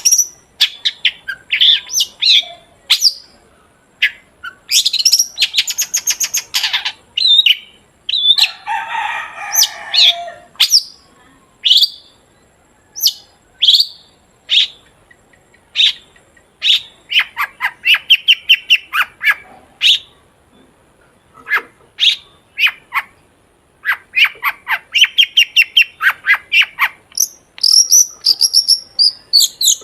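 Long-tailed shrike singing vigorously: a continuous run of sharp, high chirps broken by fast rattling trills, with a harsh, grating call about eight to ten seconds in.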